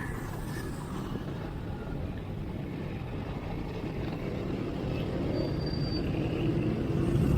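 Road noise heard from a bicycle among motor traffic: a steady low rumble of wind on the chest-mounted action camera's microphone together with passing vehicles. It grows louder over the last couple of seconds.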